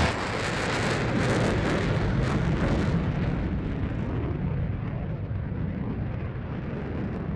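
Explosion sound effect: a deep rumble with crackling in the first few seconds, fading slowly away.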